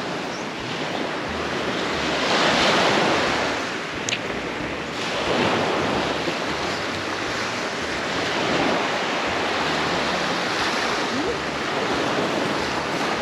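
Waves breaking and washing on a beach, a steady wash of surf that swells and eases every few seconds, with wind rumbling on the microphone.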